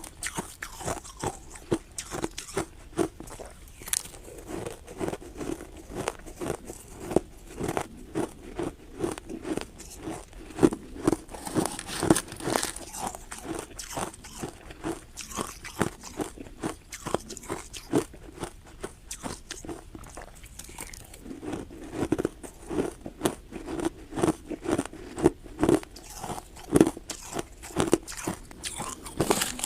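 A person biting and chewing hard ice close to the microphone: a steady run of sharp, irregular crunches and cracks as the ice breaks between the teeth.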